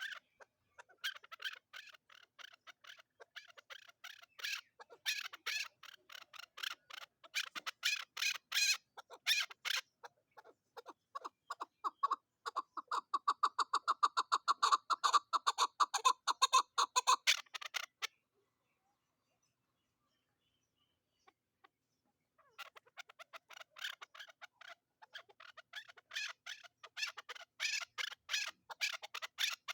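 Chukar partridge calling: long runs of short, rapidly repeated notes, several a second. The calling stops about 18 s in and starts again about four seconds later.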